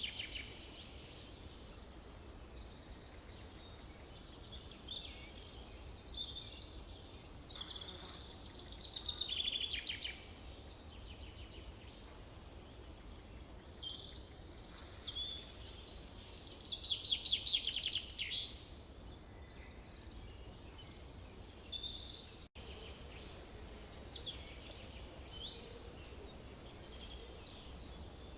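Forest birds singing and calling, several at once, with fast trills loudest about a third and again about two thirds of the way through, over a steady low background rumble. The sound cuts out for an instant about three quarters of the way through.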